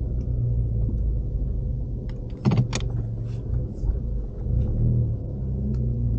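Ford Mustang EcoBoost's turbocharged four-cylinder engine running on the move, heard from inside the cabin, with a brief sharp burst of noise about two and a half seconds in.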